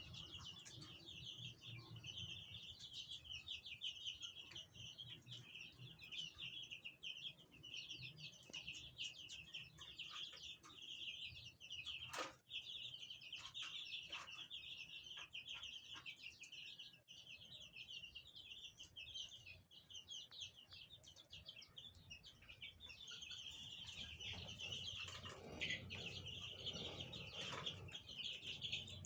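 A brood of newly hatched Brahma chicks peeping, many high cheeps overlapping without a break. The calling thins out in the middle and grows busier again near the end, with one sharp click partway through.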